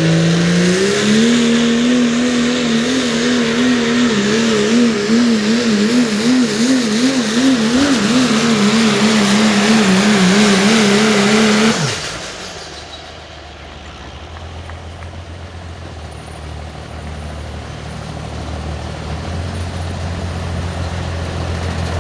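Limited Pro Diesel pulling truck's diesel engine at full throttle under load, climbing briefly and then held high with a wavering pitch. About twelve seconds in the throttle shuts abruptly and the engine falls to a low, quieter idle rumble.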